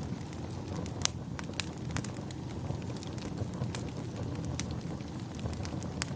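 Wood fire crackling: irregular sharp pops and snaps, one louder pop about a second in, over a steady low rumble.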